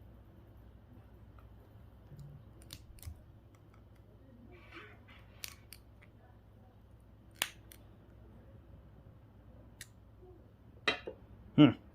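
Small clicks and taps of hand tools against plastic and metal parts while a GPS unit is being taken apart for scrap, scattered and irregular, with a couple of louder clacks near the end.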